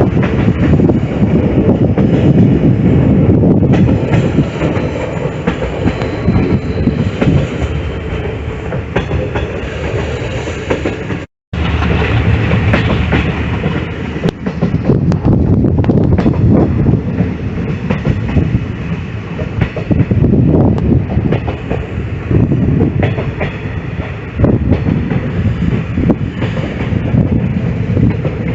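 Passenger train running on the track: steady wheel rumble with clickety-clack over the rail joints, heard from on board. There is a short break in the sound about eleven seconds in.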